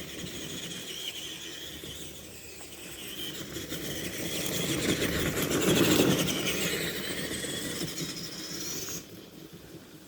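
Tamiya TXT-2 RC monster truck driving, its electric motor and gears whining and rising and falling with the throttle. It is loudest about six seconds in and drops away sharply about nine seconds in.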